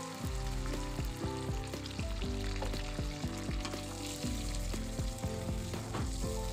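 Chicken pieces and masala paste sizzling in a frying pan as a little masala-rinse water is poured in and the mix is stirred with a wooden spatula, under background music with a steady beat.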